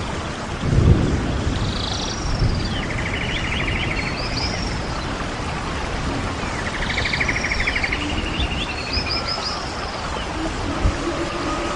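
Birds calling over a steady low rumble: a repeated phrase of a buzzy, rattling trill and high, sharply falling notes, heard about three times. A brief low thump comes about a second in.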